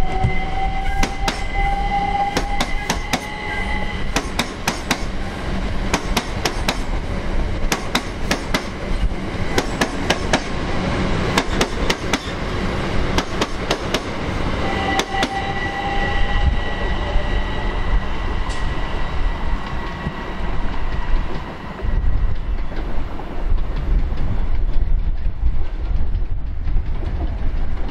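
A train running by close at hand. Its wheels click rapidly over rail joints through the first half, then settle into a steady rumble. A thin high whine rises slightly in pitch near the start and sounds again about halfway.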